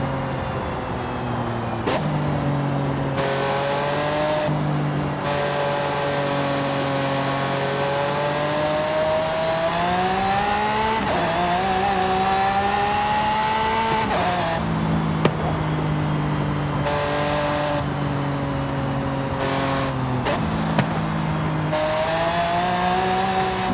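Mercedes-AMG GT 4-Door Coupé engine and exhaust while driving, revs climbing and dropping in steps as it changes gear. Two short sharp cracks in the second half.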